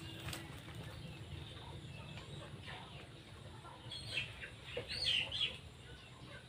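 A few short bird calls about four to five seconds in, over a faint steady background.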